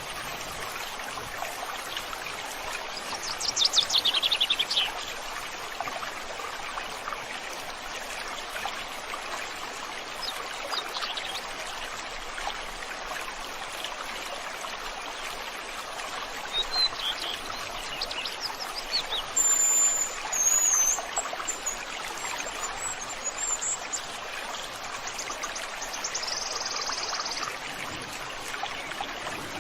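A stream flowing steadily, with songbirds calling over it: a quick falling trill about three seconds in, scattered chirps later, high whistled notes around twenty seconds in, and a short steady high note near the end.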